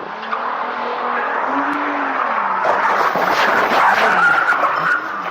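A car's tyres skidding and squealing over its running engine, growing louder toward about four seconds in and dropping away shortly before the end.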